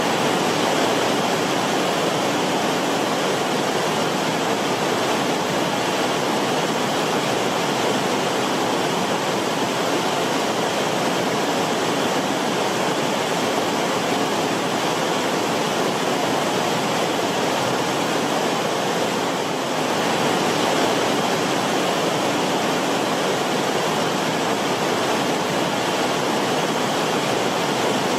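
Creek water flowing steadily over rocks in its bed, a continuous rippling and bubbling rush.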